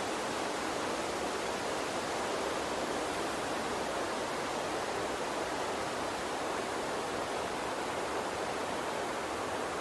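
Gentle water stream flowing, a steady even rushing with no distinct splashes or other events.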